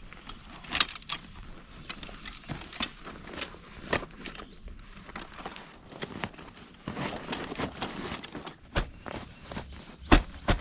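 Footsteps walking at a steady pace, a sharp step or knock about every half second, with one louder knock near the end.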